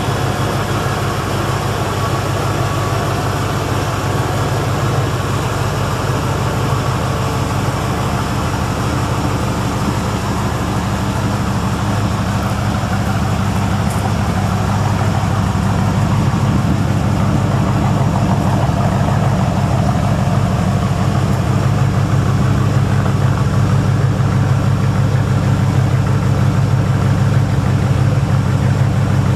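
Chevrolet Corvette C3 V8 engine idling steadily with a low rumble, getting a little louder about halfway through.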